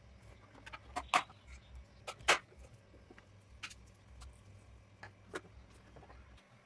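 About seven light, sharp clicks and taps scattered over a low steady hum, the sound of small hard parts being handled.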